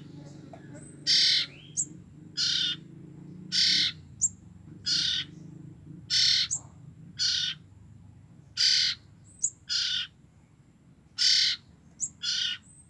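Two young common ioras, about two weeks old, giving harsh, hissy calls about once every second, about ten in all, with short high chirps between some of them. These are fledglings' calls of the kind that draw in their parent.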